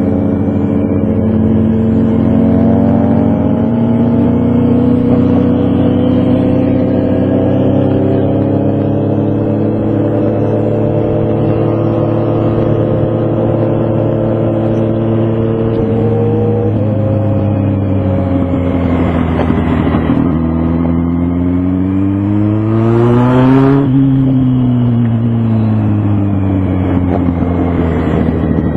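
Motorcycle engine running under way. Its pitch holds fairly steady, drops about two-thirds of the way through, then rises sharply to a peak and eases off again as the rider accelerates and lets off the throttle.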